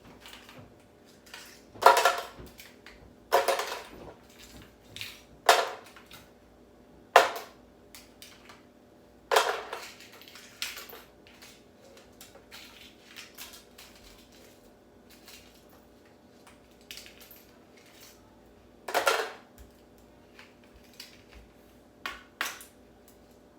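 Ice cubes clattering and cracking as they are knocked out of plastic ice trays and dropped into a container: about seven sharp, irregular hits with small clinks between them.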